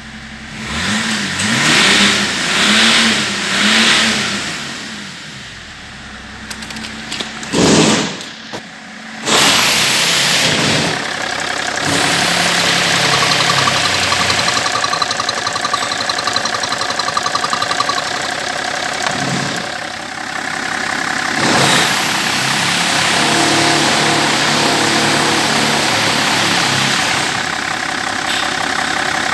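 BMW M57D30 3.0-litre straight-six turbodiesel revved three times in quick succession. About nine seconds in it stops briefly, fires up again, and then runs steadily at idle.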